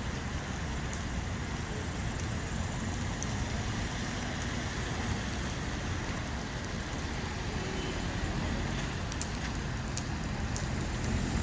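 Heavy rain falling steadily, a constant hiss over a deep low rumble, with a few sharp drip ticks scattered through it.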